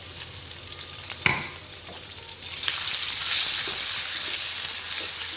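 Onions and sliced chicken sizzling in hot oil in a wok, with one sharp clack of a utensil a little over a second in. The sizzle grows much louder about three seconds in.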